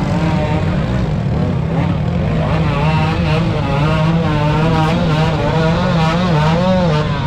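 Motocross bike engines revving, their pitch rising and falling quickly as the throttles are worked, over a steady low engine drone.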